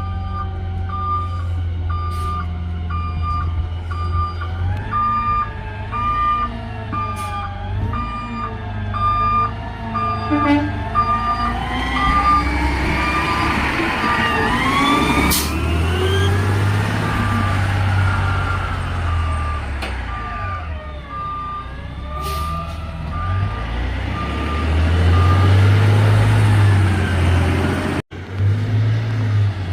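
Garbage truck's diesel engine running while its reversing alarm beeps steadily about twice a second, with a wavering whine that rises and falls through the middle and cuts off briefly near the end.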